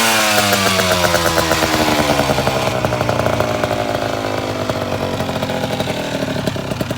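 Cagiva Raptor 125's two-stroke single-cylinder engine through an Akrapovic exhaust, its revs falling slowly and steadily after a rev, with the fast popping beat of the exhaust slowing down as it goes.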